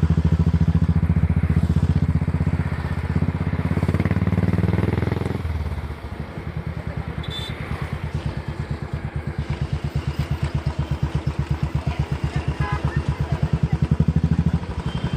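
Royal Enfield 500cc single-cylinder engine thumping under way. Its pitch rises as it pulls about four to five seconds in, then it drops off sharply as the throttle is closed. It runs quieter and builds again toward the end.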